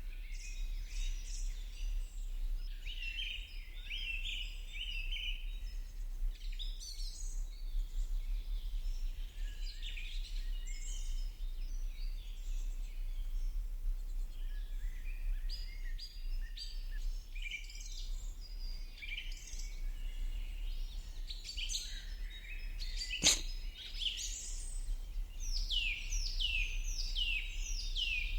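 A chorus of small birds chirping and singing, busy and overlapping, with a run of quick downward-sweeping notes near the end. A single sharp click about 23 seconds in, and a steady low hum underneath.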